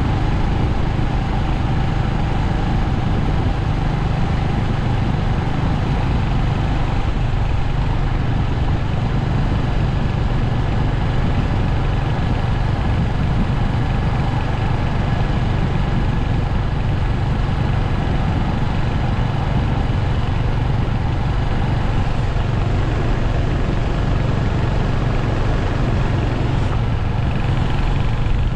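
Royal Enfield Hunter 350's single-cylinder engine running steadily, with no clear rise or fall in revs.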